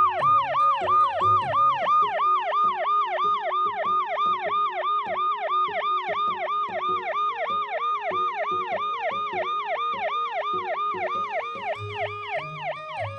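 Police car siren in a fast yelp: quick falling sweeps of pitch repeating about three or four times a second.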